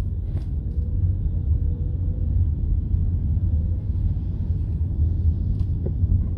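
Steady low rumble of a car driving, heard from inside the cabin, with a couple of faint brief clicks.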